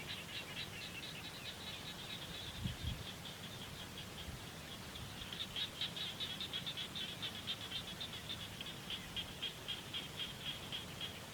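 A rapid, even series of short high-pitched chirping calls, about five a second, faint at first and louder from about halfway through.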